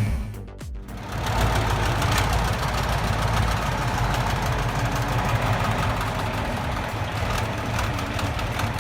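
A large engine running steadily, with a dense mechanical rumble. It comes in about a second in, after a short quieter gap.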